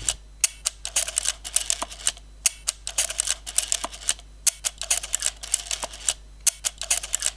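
Rapid, irregular run of sharp mechanical clicks and ticks, several a second, like a small mechanism being worked.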